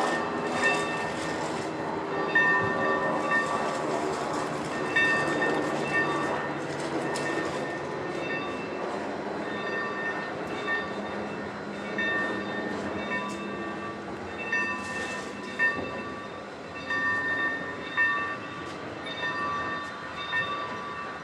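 Train on the move, with a bell ringing at a steady pace of about once a second. A lower, fuller tone sounds along with it for the first several seconds.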